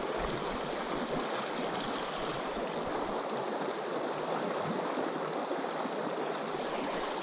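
Small mountain stream flowing, a steady rush and babble of water over rocks.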